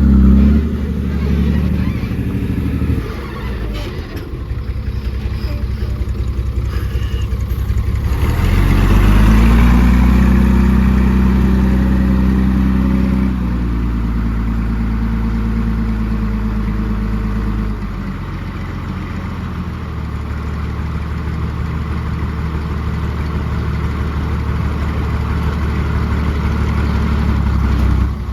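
Heavy diesel engine of earthmoving machinery running. It revs up about eight seconds in, holds high for a few seconds, then eases back down toward a steady lower speed.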